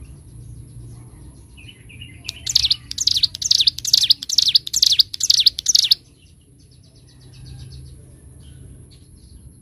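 Ciblek gunung, a prinia, singing a loud burst of rapid, repeated high falling notes that starts about two seconds in and breaks off abruptly about six seconds in. Faint chirps come before and after it.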